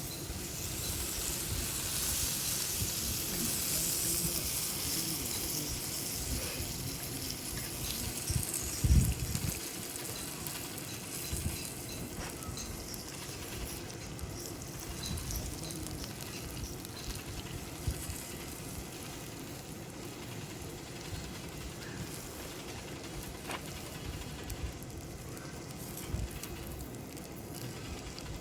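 Meat sizzling on a hot grill plate over a charcoal fire pit. The sizzle is strongest in the first few seconds and then eases off, with a low thump about nine seconds in and scattered small clicks.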